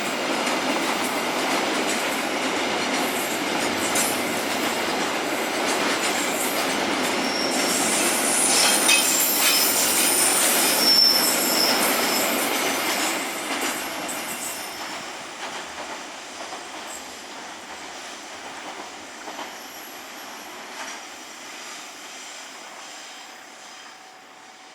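A train running on the rails as it rounds a curve, its wheels rolling steadily with brief high-pitched wheel squeals about ten seconds in. The sound then fades steadily as the train moves away.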